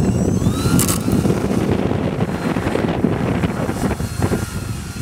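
Strong gusty wind buffeting the microphone, with a model airplane's motor whining up briefly and a sharp knock about a second in.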